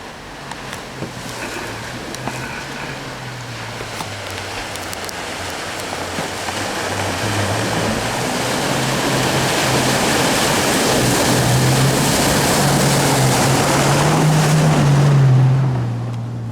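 Off-road 4x4's engine running under load as it drives through a water crossing, with splashing that builds steadily, is heaviest about fifteen seconds in, then falls away quickly.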